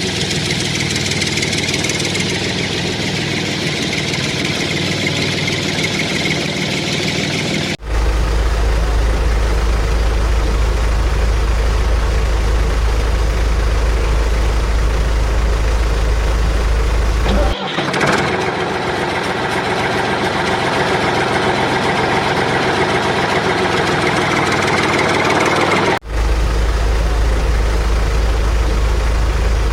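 Engines of construction machinery running steadily, in cut-together segments that change abruptly about 8, 18 and 26 seconds in, with a deep low hum during the second and last segments.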